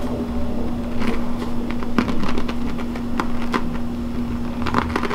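Closed-mouth chewing close to the microphone: a few soft crunches and clicks, a handful of times, over a steady low hum.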